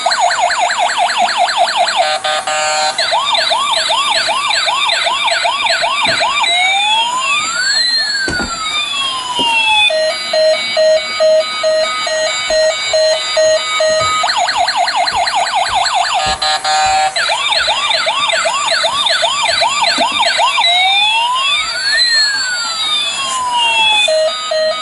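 Electronic police-style siren cycling through several tones: a fast yelp, a slower wail, two pitches sweeping up and down across each other, then a pulsed beeping pattern. The whole sequence starts over about fourteen seconds in.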